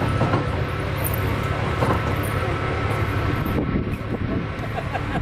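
Land train running steadily, a constant low engine hum under the rumble of the carriages, heard from aboard a passenger carriage.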